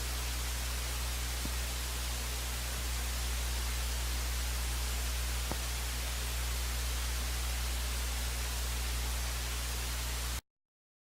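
Steady hiss of static with a low electrical hum, from a dead audio feed carrying no programme sound; it cuts off abruptly to total silence near the end.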